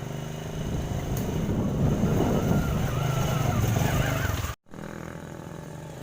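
Motorcycle engine running steadily, louder for a few seconds, then breaking off for an instant about four and a half seconds in and going on quieter.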